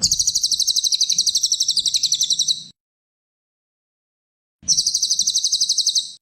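Cililin songbird singing a fast, high trill of rapidly repeated notes, about fifteen a second. It comes in two bouts, one of about two and a half seconds and one of about a second and a half, with a two-second gap between them.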